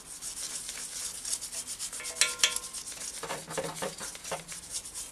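Quick repeated scrubbing strokes against a hard surface, with a brief metallic clink about two seconds in.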